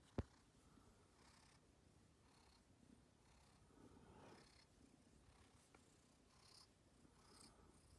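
Faint purring of a domestic cat, low and steady, with a single sharp click about a quarter of a second in.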